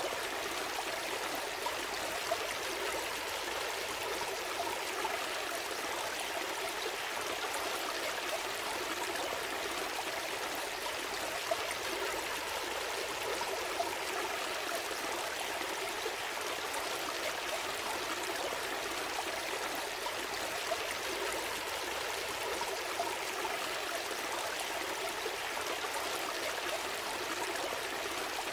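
Small stream flowing steadily over stones, a continuous babble and trickle with occasional faint splashes.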